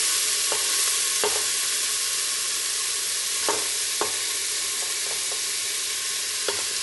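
Hot oil with cumin seeds, ginger and garlic sizzling steadily in a pot as chopped onions are scraped in; a spatula clicks against the plate about five times.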